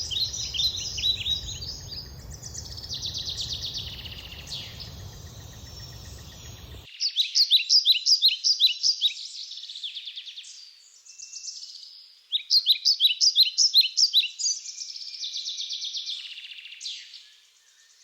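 Songbirds singing: phrases of quick, evenly repeated high notes, about eight a second, alternating with buzzier stretches. A low background rumble under the song stops abruptly about seven seconds in, leaving the birdsong clean.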